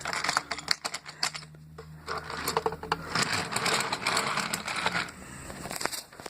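Toy trains being run along the track: a rapid mechanical clicking and rattling, densest in the middle.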